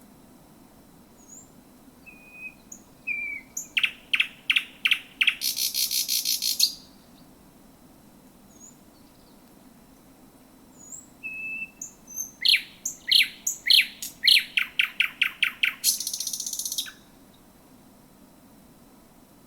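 Thrush nightingale singing two song phrases with a pause between. Each opens with a few soft whistled notes, then runs into loud, clipped notes about four a second and ends in a high, dry rattle lasting about a second.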